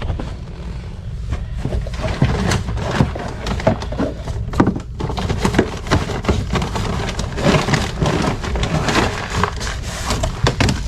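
A container of ice melter being worked open and handled: a run of irregular clicks, knocks and rustles over a steady low rumble.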